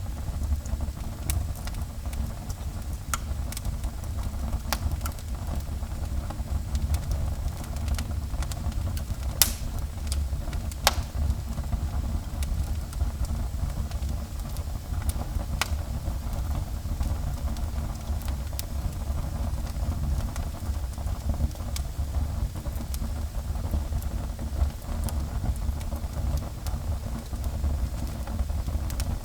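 Fire burning in a fireplace: a steady low rumble with scattered pops and crackles, the sharpest two about nine and a half and eleven seconds in.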